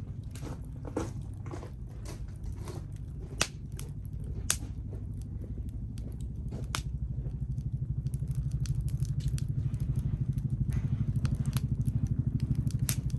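Firewood crackling and popping as it burns in a tower-shaped wood-burning fire stand, with two sharper pops near the middle. A low rumble underneath grows louder from about halfway through.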